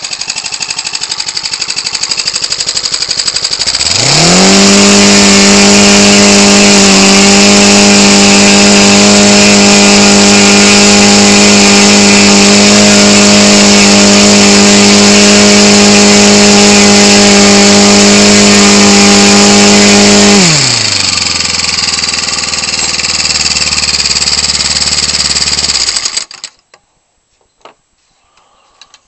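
Ryobi 29cc four-stroke engine turning an 18x6 wooden propeller, idling, then opened up to full throttle about four seconds in and held at a high, steady pitch for some sixteen seconds. It is throttled back down to idle, then shuts off suddenly a few seconds before the end.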